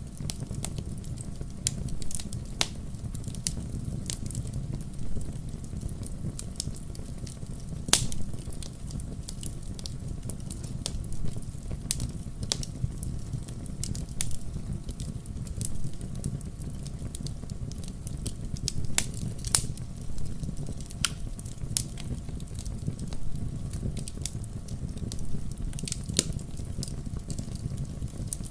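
Wood fire burning in a fireplace: irregular crackles and sharp pops over a steady low rumble, with the loudest pop about eight seconds in.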